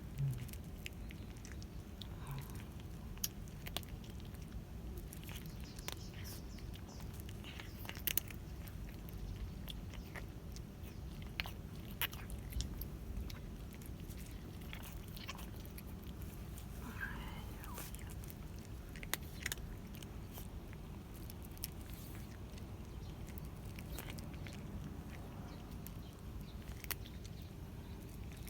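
A cat chewing and crunching its food, with irregular sharp crunches.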